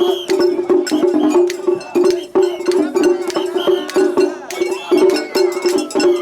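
Japanese festival hayashi music played by a hayashi ensemble: fast, dense drum and hand-gong strikes over a steady melody line.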